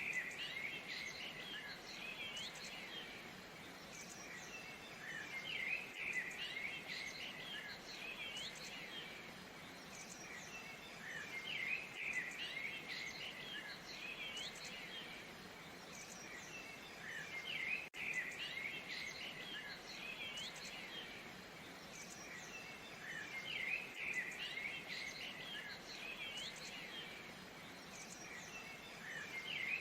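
Birds chirping in clusters that swell about every six seconds, over a steady rush of falling water from a waterfall.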